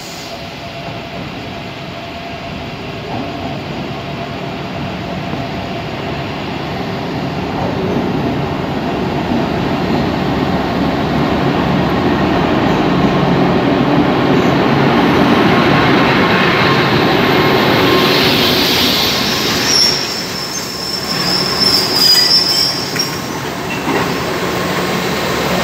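Alsthom diesel-electric locomotive drawing a passenger train into a station, growing steadily louder as it approaches. The coaches then roll past with wheels clicking over the rail joints, and from about nineteen seconds in a high metallic squeal comes in as the train slows.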